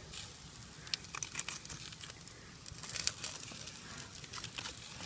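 Wood campfire crackling: irregular sharp snaps and ticks, busiest about halfway through.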